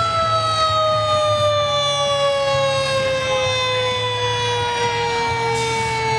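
Fire truck siren winding down, one long tone whose pitch falls slowly and steadily, over a truck engine's low rumble. A brief hiss comes near the end.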